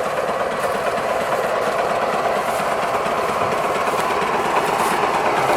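Heavy machinery engine running steadily under load, with a dense mechanical rumble that grows slightly louder toward the end.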